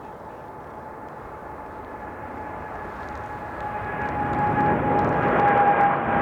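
Jet airliner engines growing steadily louder as the aircraft draws near: a steady fan whine over a broad jet rumble, swelling sharply from about four seconds in.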